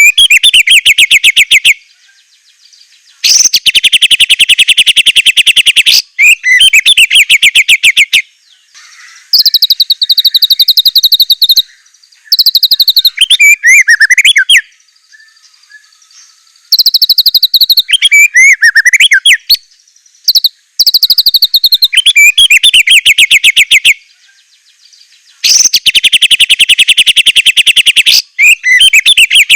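White-rumped shama (murai batu) singing loudly in repeated phrases of two to three seconds with short pauses between them. Fast rattling trills alternate with shorter phrases of sweeping, warbled notes.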